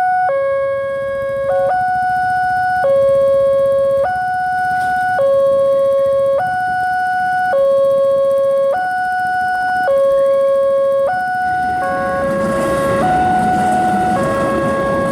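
Railway level-crossing warning alarm sounding its electronic two-tone signal, switching between a lower and a higher pitch about once a second: the crossing is warning of an approaching train. Near the end the tones switch faster and a rising rumble joins them.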